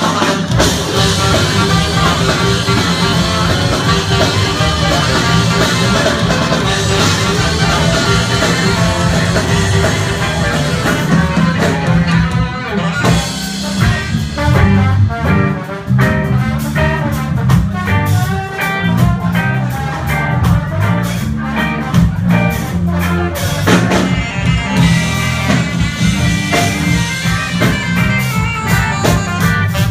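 Live rock band playing loud with horns: brass, electric guitar and drum kit over a heavy bass line.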